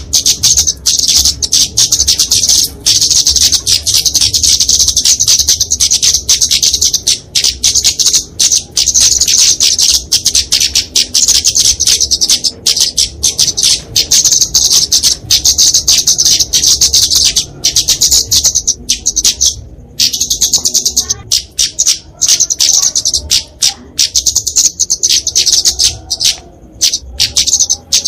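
Flowerpecker (kemade, genus Dicaeum) giving its aggressive fighting call: a loud, rapid, near-continuous stream of high-pitched chips and ticks, broken by a few brief pauses.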